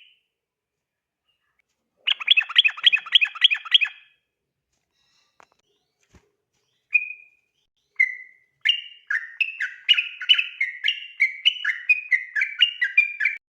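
Yellow-vented bulbul singing: a rapid rattling phrase of quickly repeated notes about two seconds in, then two single notes, then a long fast run of alternating higher and lower notes, the continuous 'ropel' song, which stops abruptly near the end.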